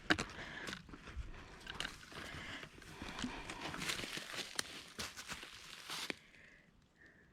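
Footsteps crunching along a dry dirt forest trail at a walking pace, stopping about six seconds in.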